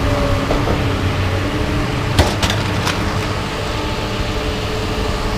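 Scrapyard material-handling machine running steadily, its engine humming, while it lifts scrap off a truck, with three sharp knocks a little over two seconds in.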